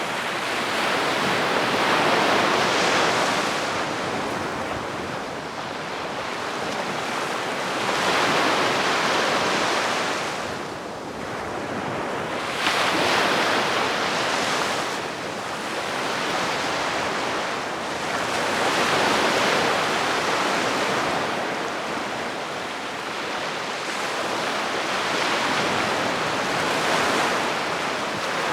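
Calm sea waves breaking gently on the shore. The hiss of each wash swells and fades about every five to six seconds.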